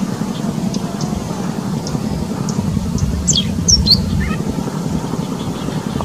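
Small songbird calling: short high chips every second or so, and a quick run of descending whistled notes about three to four seconds in, over a steady low rumble.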